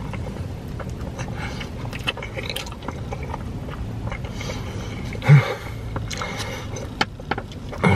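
Close-up chewing and wet mouth sounds of someone eating a mouthful of cheesy deep-dish pizza, with many small clicks and smacks over a steady low rumble. There is one short, louder burst about five seconds in.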